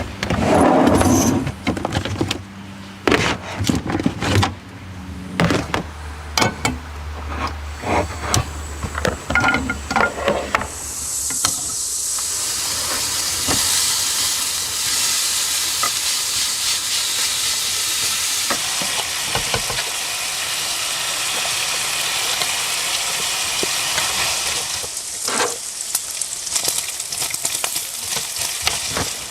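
Scattered knocks and clatter of cookware, then food starts sizzling in a hot pan about 11 s in, a steady frying hiss that fades about 25 s in, followed by a few more knocks.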